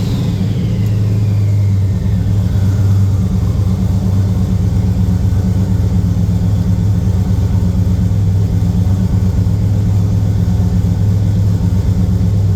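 Turbocharged LS V8 in an OBS GMC pickup dropping back to a steady idle after a transbrake rev. A turbo whine falls away in pitch over the first couple of seconds.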